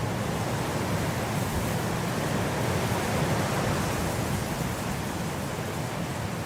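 Blizzard wind blowing as a steady rushing hiss, swelling a little a couple of seconds in and easing off after.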